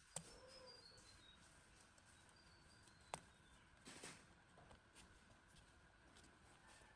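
Near silence, with a few faint, sharp clicks.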